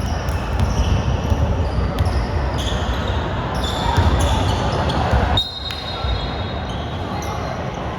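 Basketball game play in a gym: the ball bouncing on the court and sneakers squeaking in short high chirps, over a murmur of players' voices.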